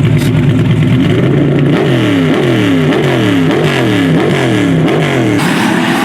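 Drag race car's engine idling, then revved in quick throttle blips, about six rises and falls in pitch a little over half a second apart, before a steadier, harsher run near the end.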